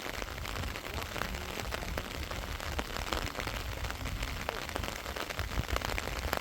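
Heavy rain falling steadily, with many separate drops tapping sharply over a constant hiss.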